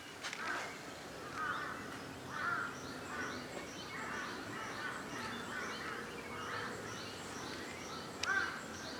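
Several wild birds calling: short arched call notes repeating every second or so, with rows of high thin chirps over them, against a steady outdoor background hiss.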